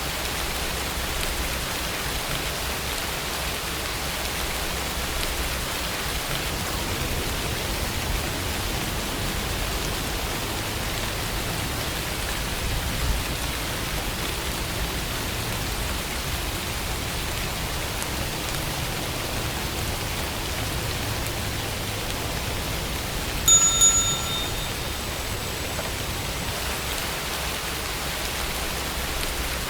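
Steady rainfall with no words. About three-quarters of the way through, a short bell-like chime rings once, the Pomodoro timer signalling the end of the study session and the start of the break.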